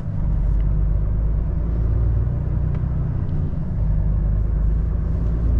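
Tractor-trailer's diesel engine running under way, heard from inside the cab: a steady low rumble.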